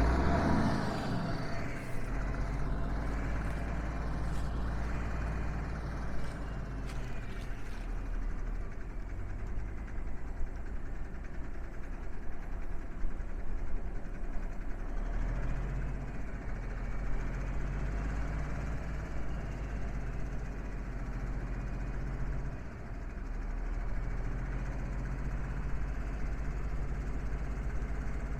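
Diesel engine of a 1985 Freightliner truck idling steadily, after a short loud burst right at the start.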